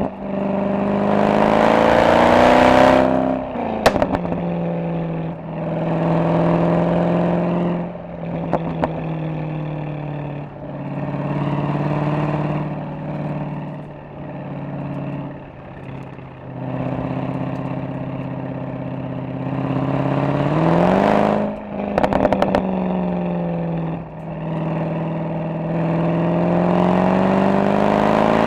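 Mercedes-AMG SL63 V8 exhaust under acceleration, the pitch rising as it pulls early on, again around twenty seconds in and near the end. Short crackles and pops come each time it drops back off, with lower, wavering running in between.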